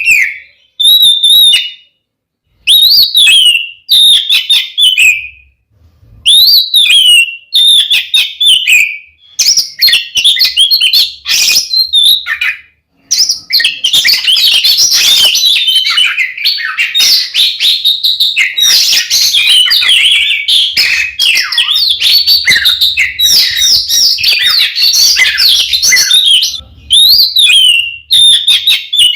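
Oriental magpie-robin (kacer) singing loudly. It starts with short whistled phrases that rise and fall, separated by pauses. About thirteen seconds in it breaks into a long unbroken run of rapid, varied notes, then returns to separate phrases near the end.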